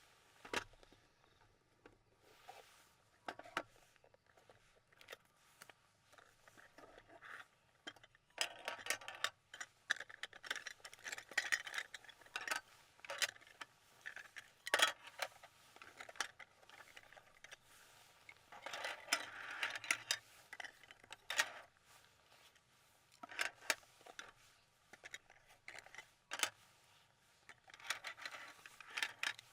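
Clinks, taps and scraping of small hard objects handled close by, coming in short clattering flurries several times.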